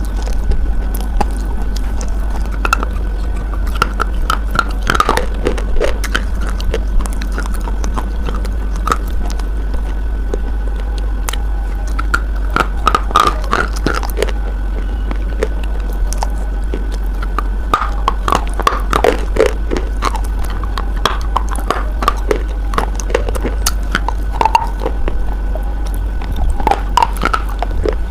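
Close-up biting and crunching of a hard, brittle white bar coated in paste: sharp cracks and crackles in irregular clusters, over a steady low hum.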